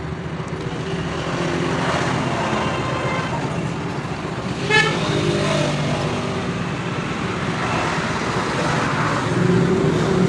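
Motorcycle engine idling steadily, with a short horn toot about five seconds in.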